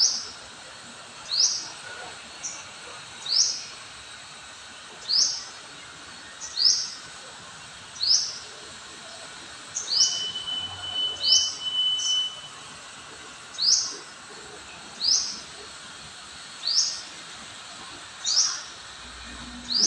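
Oriole giving a short, high call over and over, about once every second and a half. A thin steady tone runs for a couple of seconds around the middle.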